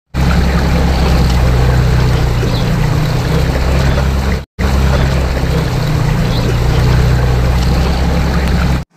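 Loud steady rush of churning whirlpool water with a heavy low rumble, cutting out briefly about halfway through and then resuming.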